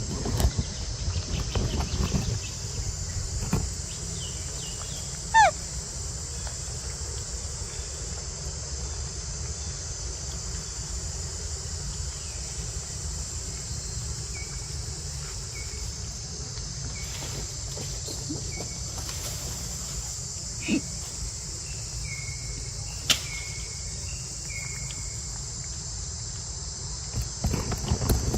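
Steady, high-pitched insect chorus over a low rumble. There is a single falling squeak about five seconds in, a few short, high chirp calls near the end, and occasional knocks.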